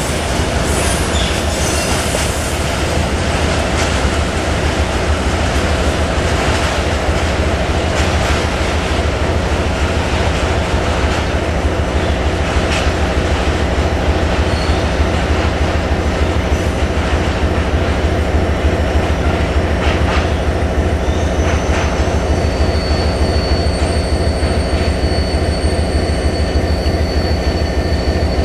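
Freight train of tank wagons rolling past: a steady rumble of steel wheels on rail with a few clacks over the rail joints. A thin, high squeal sets in near the end as the train slows to stop.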